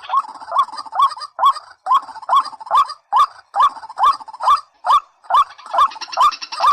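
A rail calling over and over, short loud rising notes about two a second, from a white-breasted waterhen and watercock call recording. Near the end a higher buzzing layer joins in.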